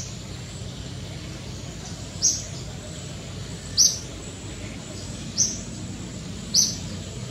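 A bird giving short, high chirps, one about every second and a half, over a steady low rumble.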